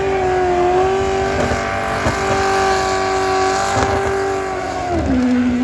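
Ford Maverick burnout car's engine held at high revs at a steady pitch while the rear tyres spin in a burnout. About five seconds in the revs drop and the engine sound falls away.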